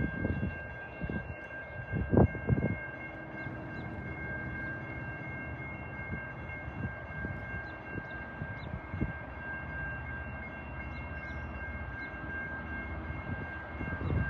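A train running on the line: a steady low rumble with a high, even whine held throughout, and a few heavy thumps in the first three seconds.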